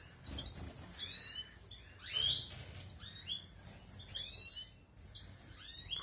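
Balkan goldfinches (Carduelis carduelis balcanica) calling: groups of quick, high chirps that slide up and down in pitch, about a second apart.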